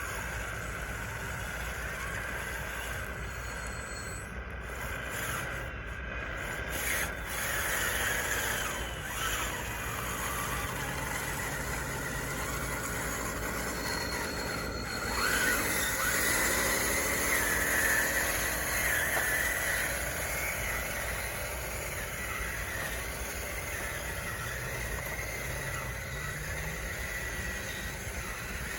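Small electric motors and gearing of a radio-controlled construction model whining as it works, the pitch rising and falling as the motors speed up and slow down, louder for a few seconds around the middle.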